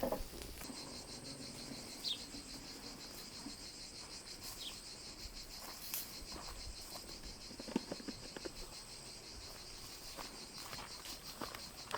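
Crickets chirping in a steady, fast-pulsing trill, with a few soft knocks and clicks here and there.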